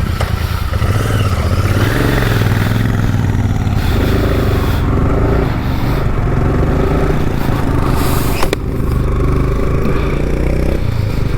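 Motorcycle engine running under way, with road and wind noise. There is one sharp click about eight and a half seconds in.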